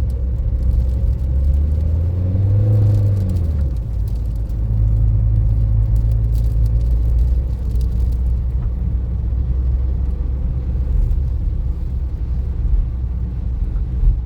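Car engine and road rumble: a loud, low, steady drone. About two to three seconds in, the engine note rises and then falls back.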